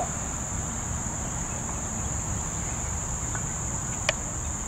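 Crickets chirring steadily at a high, even pitch, over a low rumble, with a single click about four seconds in.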